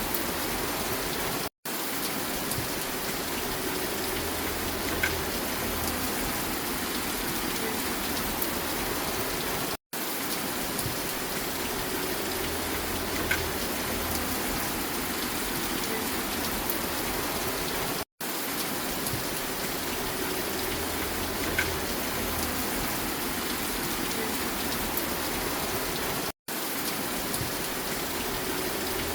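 Steady rain falling, an even hiss broken by a brief dropout to silence about every eight seconds, four times.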